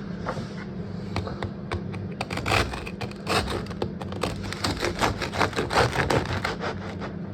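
Knife sawing through the crust of a home-baked loaf of bread, crackly scraping strokes that come quick and irregular and grow busier about two seconds in. A steady low hum runs underneath.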